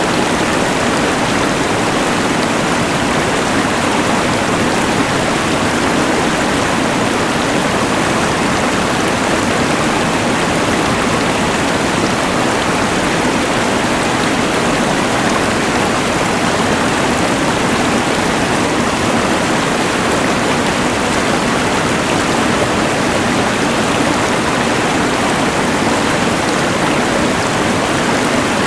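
Rushing mountain river layered with the steady hiss of a LectroFan white noise machine, an even, unchanging rush of water and noise.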